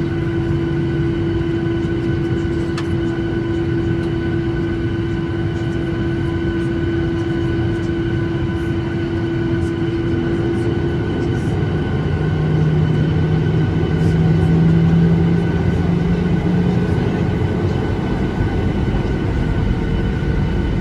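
Boeing 737-800's CFM56 turbofan engines running at high power, heard from inside the cabin during the take-off run: a loud, steady roar with steady engine tones. A higher tone stops about halfway and a lower tone takes over for a few seconds.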